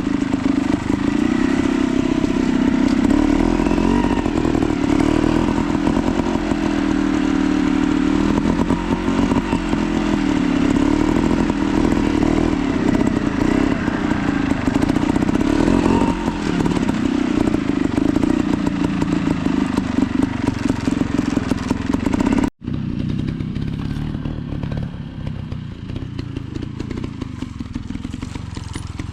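Beta 200 two-stroke trials bike engine running at low revs, its pitch wavering up and down with small throttle blips during slow, balance-focused riding. The sound breaks off abruptly about three quarters of the way through and resumes a little quieter.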